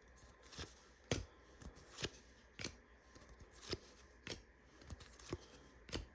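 Donruss basketball trading cards being flipped through one at a time, a short crisp snap of card stock at irregular intervals of roughly half a second to a second.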